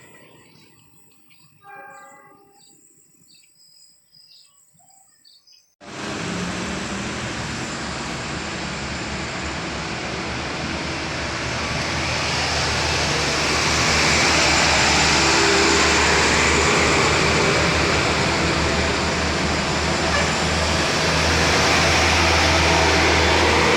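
A train passing: loud, steady running noise with a low drone underneath, starting abruptly about six seconds in and growing louder midway. Before it, a few seconds of faint scattered sounds.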